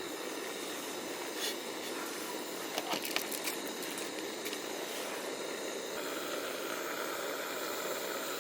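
Steady hiss of a flame heating a pot of water, with a few light clicks about three seconds in.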